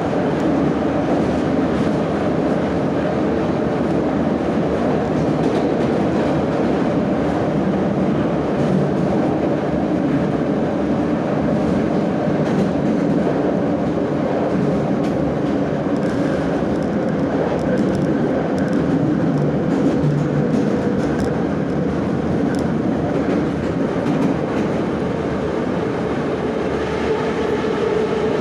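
Moscow Metro 'Nomernoy' (81-717/714 series) train running at speed through a tunnel: a steady rumble of wheels on rails with clickety-clack and a faint motor whine that grows slightly stronger near the end.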